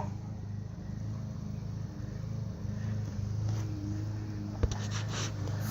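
A steady low hum, with a single sharp click a little over four and a half seconds in.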